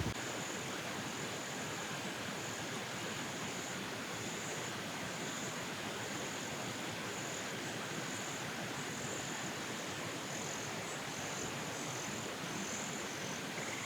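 High-pitched insect chorus in swamp woodland: a thin, steady buzz that pulses on and off, over an even hiss.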